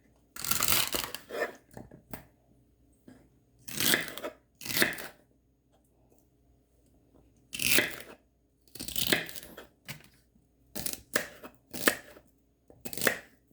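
Hands handling food in the kitchen: a series of short, crunchy tearing sounds, about nine, coming irregularly with quiet gaps between.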